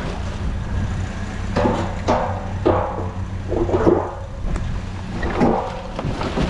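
A vehicle engine idling with a steady low hum, with several short rattling and scraping noises over it.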